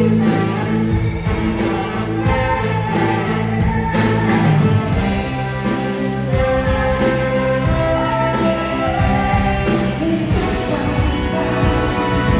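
A soul band playing live, with singing over a steady drum beat and sustained instrument chords.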